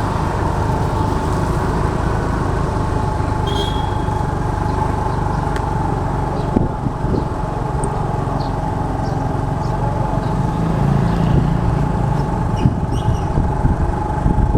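Motor scooter running at a steady pace during a ride, with a steady engine whine over a low rumble.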